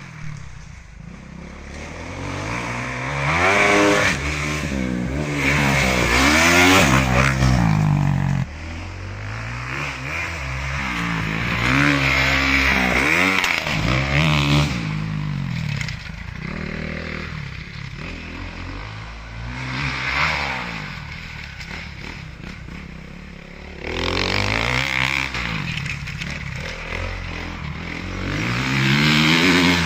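Honda CRF450 motocross bike's single-cylinder four-stroke engine running hard on a dirt track, its pitch climbing and dropping again and again as the throttle is opened and shut through the gears, with several louder surges.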